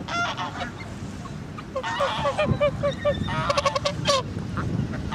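Geese honking: one call at the start, then two quick runs of short, repeated honks a couple of seconds in, with a low rumble of wind on the microphone underneath.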